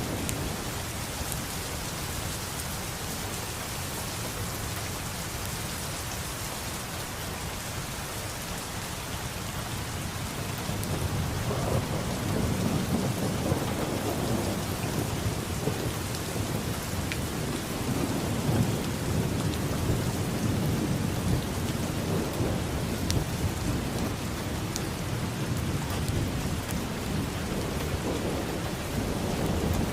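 Steady rain falling, with low thunder rumbling in about eleven seconds in and continuing to rumble.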